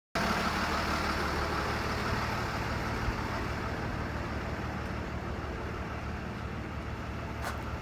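A motor vehicle's engine idling steadily, with a short click near the end.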